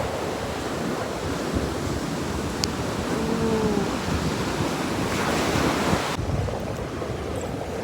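Sea waves breaking and washing up the shore, with wind buffeting the microphone; one wave surges loudest about five to six seconds in.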